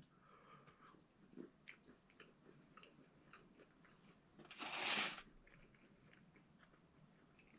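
A person quietly chewing a bite of a dry 1982 MRE chocolate-covered brownie, with small scattered mouth clicks, and a short breathy rush of noise about five seconds in.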